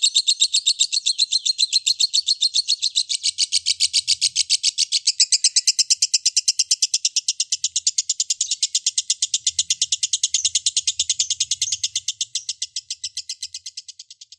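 Lovebird 'ngekek' song: one long, unbroken chattering trill of rapid, evenly spaced high chirps, fading out near the end.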